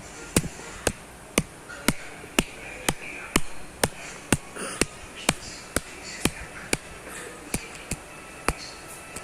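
A steady series of sharp clicks, about two a second, evenly spaced, over a faint background hiss.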